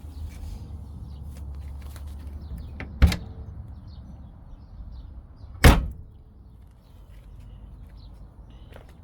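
Two sharp bangs about two and a half seconds apart, the second one louder, over a low rumble that fades out at the first bang.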